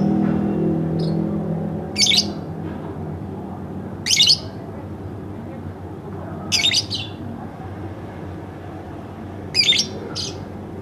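Pet lovebird giving short, shrill chirps in brief bursts every two to three seconds. A low engine hum fades out over the first second and a half.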